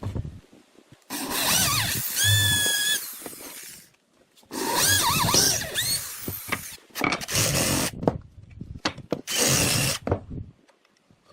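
Power tool running in four bursts of a few seconds each, its motor whine sliding up and down in pitch as it works the wood.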